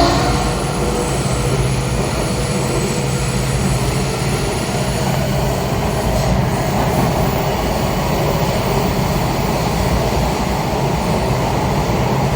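Washington Metro Kawasaki 7000-series railcar under way, heard from inside: the steady rumble and rush of the wheels on the rails, with a low steady hum through roughly the first half.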